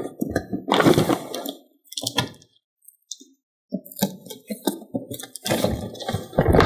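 Plastic toys and diecast cars being handled: an irregular run of clacks, knocks and scrapes, broken by about a second of silence near the middle.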